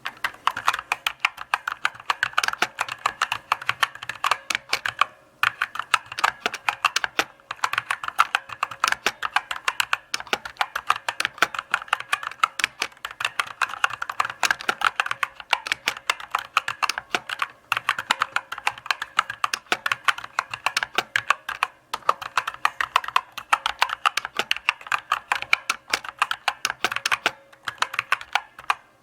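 Typing on a mechanical keyboard: a steady run of rapid key clicks and clacks, broken by a few brief pauses.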